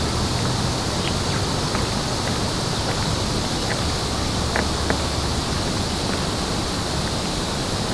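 Steady rushing background noise with a few short, high chirps scattered through it, the clearest pair about halfway.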